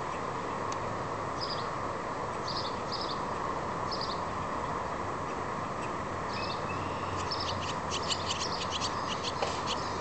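Small songbird chirping: a few short, high chirps spaced out, then a quick run of rapid chirps near the end, over a steady background hum.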